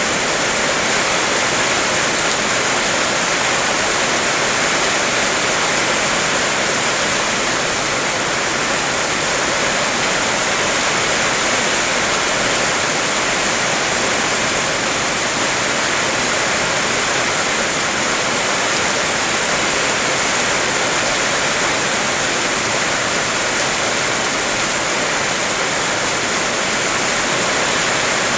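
Heavy rain falling as a steady, dense hiss, without separate drop taps.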